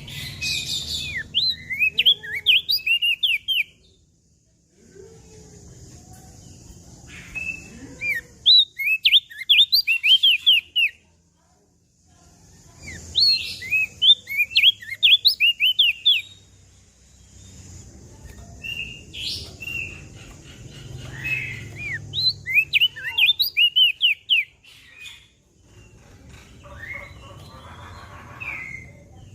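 Crested white-eye (opior jambul) singing: phrases of quick, high chirping notes lasting two to four seconds, repeated about every five seconds with short pauses between.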